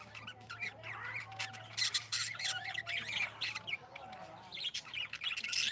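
Budgerigars chattering and squawking: many short, quick, overlapping calls, busiest from about two seconds in.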